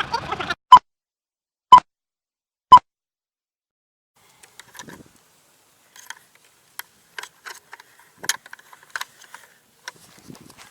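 Three short, loud electronic beeps exactly a second apart, then faint scattered clicks and taps.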